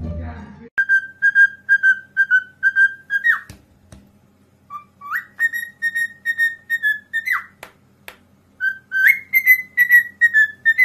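A pet parrot whistling a tune: three phrases of short, clear notes, each ending in a quick downward swoop.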